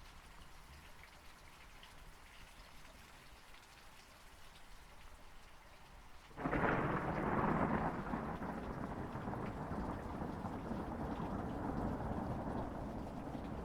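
Steady rain falling, then about halfway through a sudden thunderclap breaks in, loudest for a second or two, and rolls on as a long rumble over the rain.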